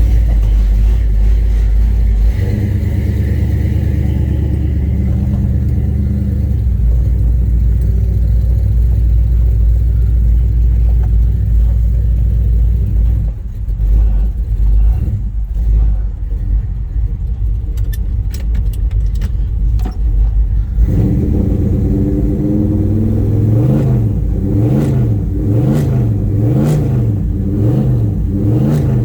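1970 Chevrolet Chevelle engine running shortly after a cold start, a steady low note. About two-thirds of the way through it is revved repeatedly, the pitch rising and falling about once a second.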